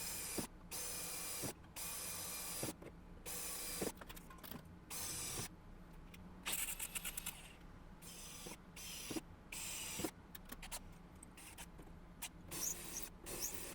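Electric drill with a spot-weld cutter bit drilling out spot welds in car body sheet metal, running in many short bursts of about half a second to a second each, with brief pauses between.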